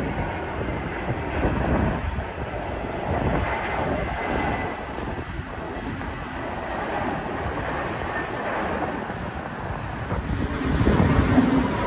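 Steady noisy rumble of a running vehicle or engine, growing louder near the end.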